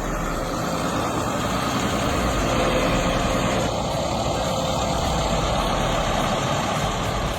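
Heavy tractor diesel engine running hard under load, a steady, noisy roar with no clear change in pitch.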